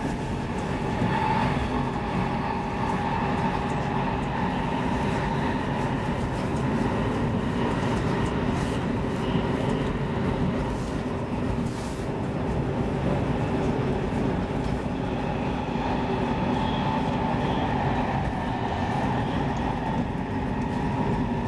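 Interior running noise of an X10 electric commuter train moving steadily along the line. A constant rumble is heard with a steady whine over it.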